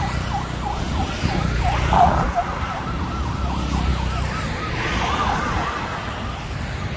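A heavy vehicle's engine running low and steady under a fast warbling electronic alarm tone. The warble rises and falls about five times a second.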